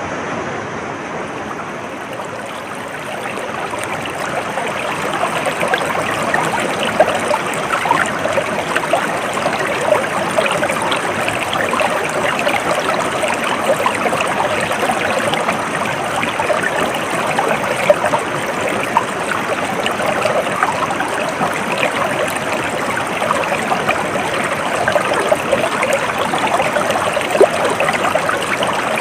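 Stream water flowing and babbling over rocks: a steady rush with many small splashes and gurgles, which grows louder a few seconds in.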